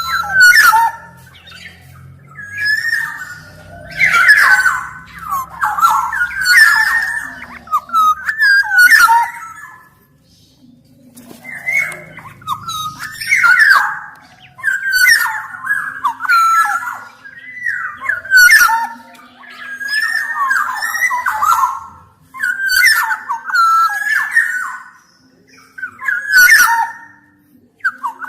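Black-naped oriole singing: short phrases of fluty whistled notes that slide up and down, repeated every second or two, with a pause about ten seconds in.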